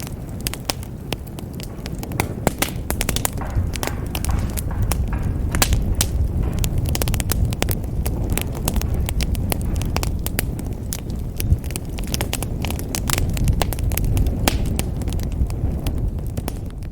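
Wood fire in a fireplace crackling: many sharp snaps and pops over a low, steady rumble of the flames.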